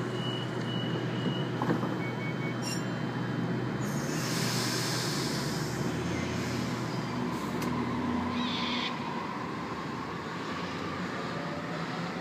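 Sydney Trains Waratah (A-set) electric train pulling out of the platform: a steady rumble, with a burst of air hiss about four seconds in and a whine that slides down in pitch near the end.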